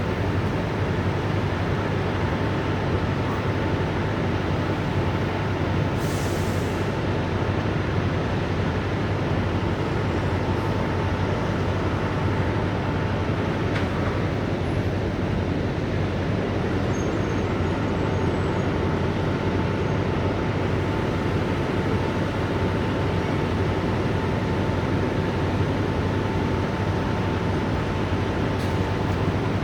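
Steady rumble of idling truck engines, with a constant low hum and a thin high tone that fades out for a few seconds mid-way.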